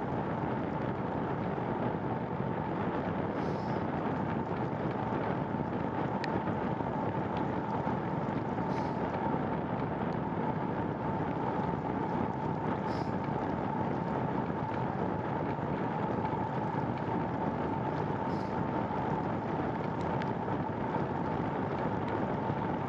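Steady wind and rolling noise of a bicycle being ridden on a trail, with a faint steady whine throughout and a faint tick every few seconds.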